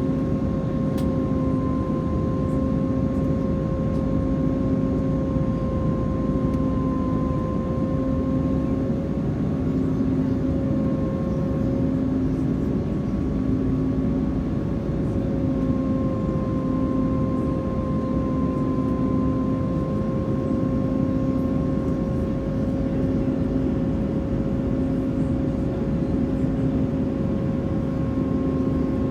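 Steady cabin roar of an Airbus A330-300 airliner under engine power, with a steady engine hum and a lower throb that pulses about once a second.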